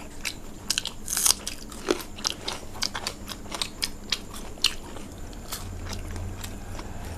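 Close-up chewing and crunching of fried food, with a quick run of sharp wet mouth clicks. A low hum comes in about five seconds in.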